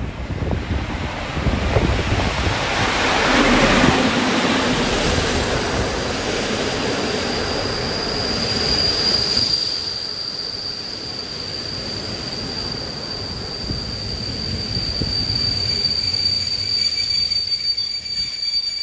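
Locomotive-hauled passenger train pulling into a station: the electric locomotive rumbles past loudest a few seconds in, then the coaches roll by with a high, steady squeal as the train slows.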